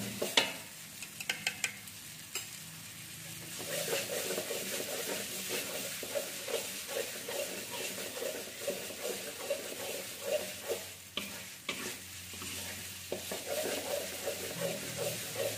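Ground spice paste frying and sizzling in hot oil in a stainless steel wok while a spatula stirs and scrapes it in repeated strokes, with a few sharp clinks of the spatula on the wok in the first couple of seconds.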